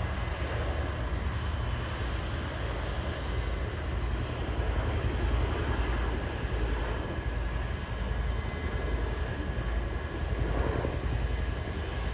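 Aircraft engines running steadily: a deep, continuous rumble with a thin steady whine above it.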